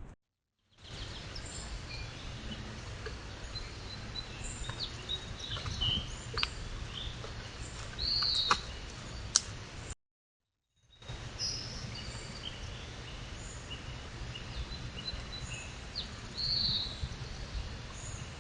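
Wild birds chirping and calling over a steady outdoor hiss and low hum. A few sharp clicks sound in the first half. The sound cuts out twice for about a second, where one recording ends and another begins.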